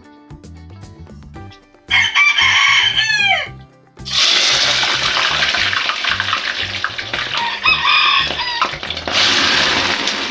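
A rooster crowing about two seconds in, its call ending in a falling pitch, with another short call near the eighth second. From about four seconds on a loud, steady rushing noise, like running water, fills the rest.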